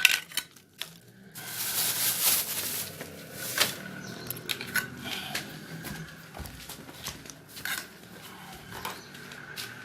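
Angle grinder with a thin cutting disc running, with a loud hissing burst of cutting between about one and three seconds in. It then spins on steadily with a few knocks.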